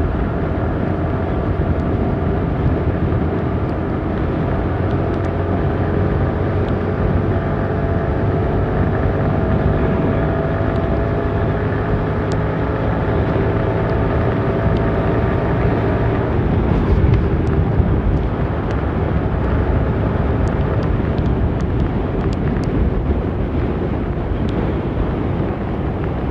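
Motorcycle engine running steadily while riding on the road, its pitch drifting slightly up and down, under heavy wind noise buffeting the microphone.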